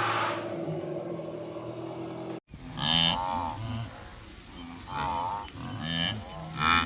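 An animal calling in short, repeated calls that rise and fall in pitch, starting about two and a half seconds in after a sudden cut. Before the cut a pitched sound fades away.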